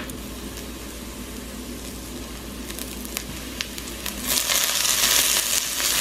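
Diced onions sizzling in a cast-iron skillet. About four seconds in, chopped bell pepper is dropped into the pan and the frying becomes much louder.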